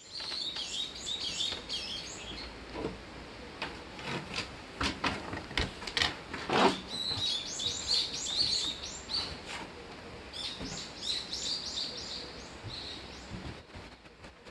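Songbirds singing quick, high, repeated chirping phrases in several bursts. A series of sharp clicks or knocks comes through the middle, the loudest about six and a half seconds in.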